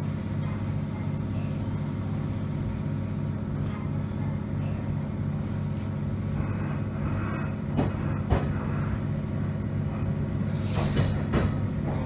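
A train running along the line, heard from on board: a steady low hum with a regular pulse. A few short clicks come from the wheels over rail joints about two-thirds of the way through and again near the end.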